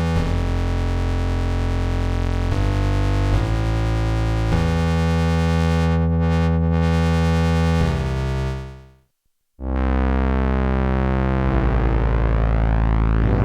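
Behringer JT-4000M Micro synthesizer playing a preset: a run of held notes that changes every second or so, then fades out about nine seconds in. After a short gap a new patch starts on a held low note that turns into a swirling, shifting sweep.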